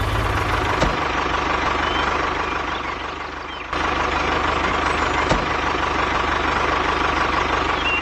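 Heavy vehicle engine idling steadily. About three and a half seconds in the sound cuts abruptly and comes back a little louder, and there are two short knocks, about a second in and about five seconds in.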